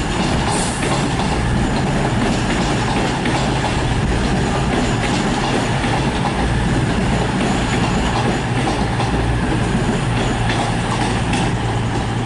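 CrossCountry Class 221 Voyager diesel-electric multiple unit pulling into the platform, its underfloor diesel engines running with a steady low hum and the wheels clicking over the rail joints.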